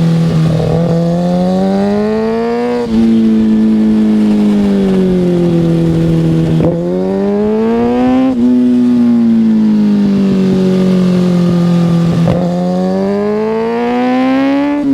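Kawasaki ZX-6R 636's inline-four engine under way. Its pitch climbs and falls as the rider accelerates and eases off, with several abrupt jumps in pitch at gear changes.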